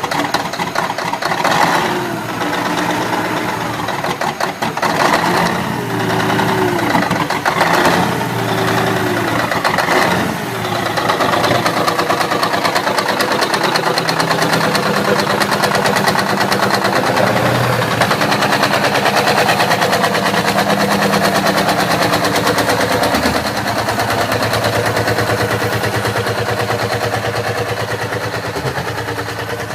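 Diesel engine cold-starting: uneven running with sharp knocks and a few brief swings in revs for about the first ten seconds, then settling into a steady idle.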